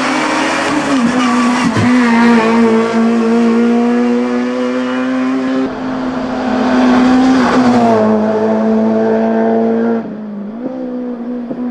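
Racing car engine running hard at high revs, its pitch held nearly level and dipping briefly several times. The tone changes abruptly about six and ten seconds in.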